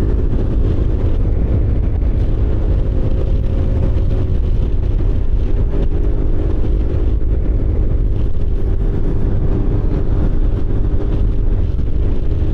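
Kymco Agility City 125 scooter's engine running at a steady cruise, with heavy wind rumble on the microphone.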